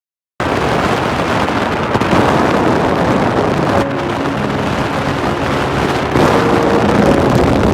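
Loud, steady rushing noise that cuts in suddenly after a moment of silence, with faint held musical notes over it from about three and a half seconds in.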